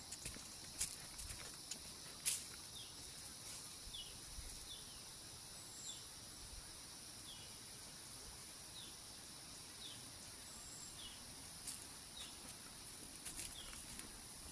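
Forest ambience: a steady high-pitched insect drone, with short falling chirps every second or so. There are a few sharp clicks in the first two and a half seconds.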